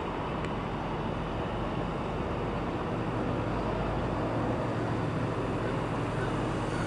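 1964 Chevrolet Impala's engine running at a low, steady pace as the car drives slowly and turns toward the microphone, growing a little louder about halfway through.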